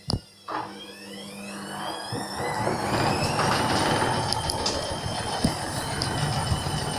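Hoover washing machine spinning up with an unbalanced load: the motor whine rises in pitch over about three seconds and levels off, while rumbling and knocking grow louder as the drum shakes the machine. A sharp click comes right at the start.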